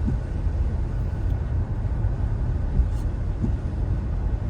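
Road noise inside a moving car: a steady low rumble of engine and tyres, with a faint click about three seconds in.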